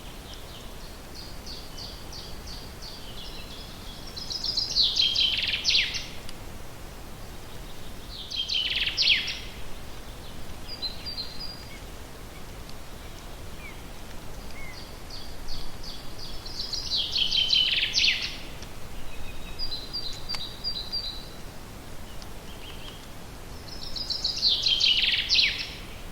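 A songbird singing the same song four times, about every seven to eight seconds: a run of quick high notes that builds into a loud, falling flourish. Short high call notes come between the songs, over a faint steady background hiss.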